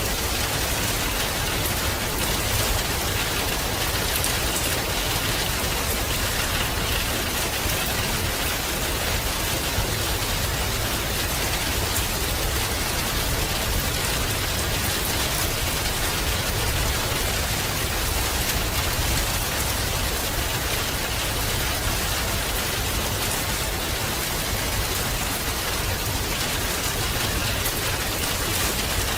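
Steady rain falling and pattering on a surface, an even hiss with scattered drop ticks and no change in strength.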